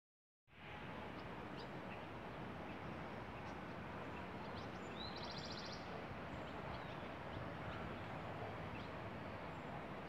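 Steady background rush of open-air noise. About five seconds in, a bird gives a short rising call that runs into a rapid high trill lasting under a second.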